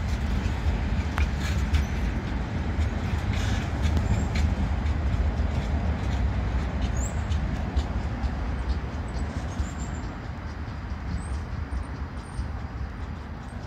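A long freight train of enclosed car-carrier wagons rolls past on the rails with a steady low rumble. Sharp clicks and knocks from the wheels come in the first few seconds, and the whole sound slowly fades as the train draws away.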